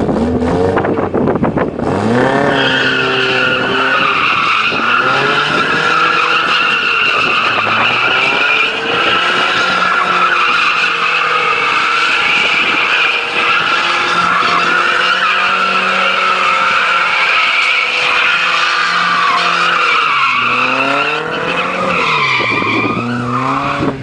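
Mercedes-Benz 190E (W201) with its 1.8-litre four-cylinder engine drifting. Its tyres squeal steadily for about twenty seconds over the engine held high in the revs. The engine revs up and down at the start and again near the end, as the car goes into and comes out of the slide.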